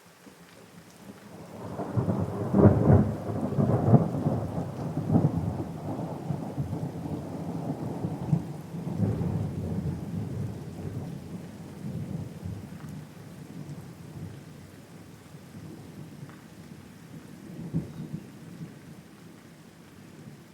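A long peal of thunder over steady rain: it swells about two seconds in, is loudest with sharp crackles for the next few seconds, then rolls away slowly, with one last smaller crack near the end.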